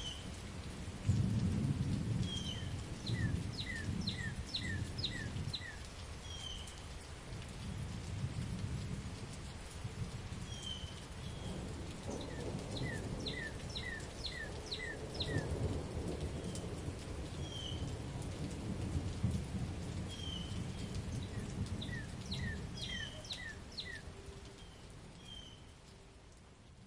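Steady rain with rolling thunder, the loudest rumble about a second in. A bird chirps in quick runs of five or six notes three times over the rain. Everything fades out near the end.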